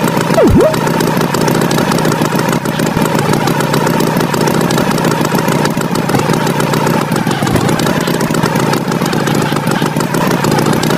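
Tractor engine sound effect running steadily. About half a second in, a quick whistle swoops down and back up.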